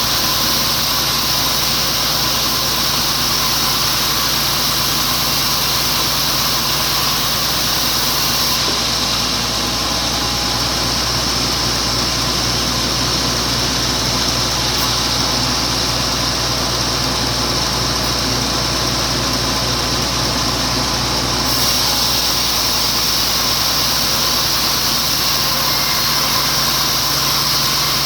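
Sawmill running continuously while a wet teak log is being sawn into boards. For about thirteen seconds in the middle the high hiss falls away and a low, evenly pulsing hum takes over.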